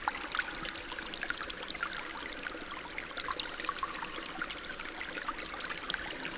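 Small stream trickling and burbling steadily over stones, with many small splashes and droplet sounds.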